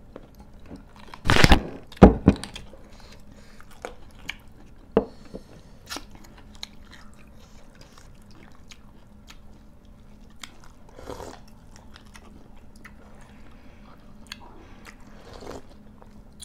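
Close-up eating sounds: people chewing, with many small mouth clicks and crunches. Two loud noisy bursts come at about one and two seconds in.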